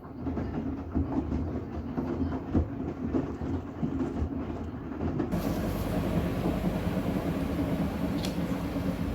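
A Miele laundry machine starts its drum turning with a load of bath towels: a dense rumble with many knocks. About five seconds in the motor picks up and it settles into a louder, steady hum with hiss.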